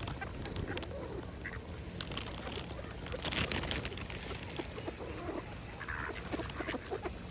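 Mallard ducks quacking and dabbling at the pond surface as they feed, with short calls scattered throughout and a brief noisy burst about three and a half seconds in, over a steady low rumble.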